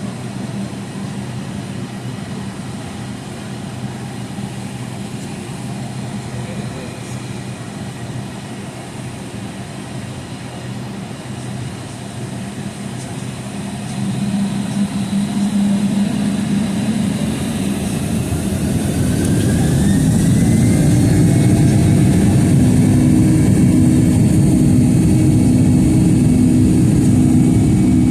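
Boeing 757's Pratt & Whitney PW2037 turbofans heard from inside the cabin, spooling up to takeoff thrust: a steady hum for the first half, then the engines grow louder in two steps with a whine rising in pitch, settling into a steady, louder run.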